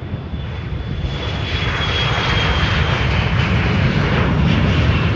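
Jet airliner's engines growing steadily louder as it comes close, a wide rushing noise over a deep rumble, with a thin high whine slowly falling in pitch.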